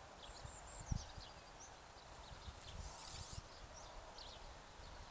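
Faint chirps and short whistles of small songbirds, scattered throughout, over a low irregular rumble of wind on the microphone, with a soft thump about a second in.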